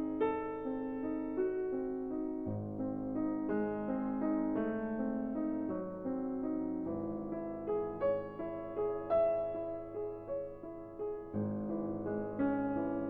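Background music: a gentle piano melody over changing bass notes.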